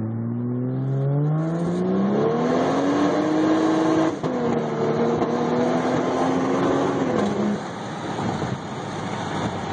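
Toyota 1JZ-GTE twin-turbo inline-six pulling hard under acceleration, its pitch rising for about four seconds. There is a brief dip at an upshift, then it runs at a steady pitch until the driver lifts off near the end, leaving road and wind noise.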